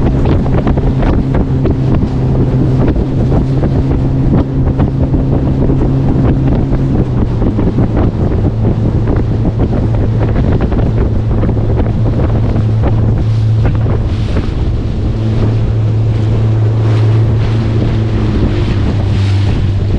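Motorboat engine running steadily under way, with wind buffeting the microphone and water rushing past the hull. The engine note drops slightly about seven seconds in.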